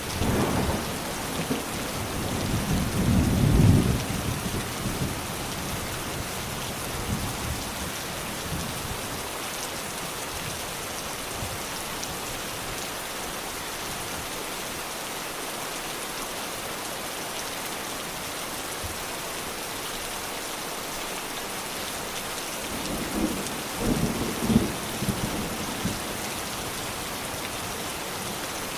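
Steady rain falling, with low rolls of thunder rumbling: one in the first few seconds and another near the end.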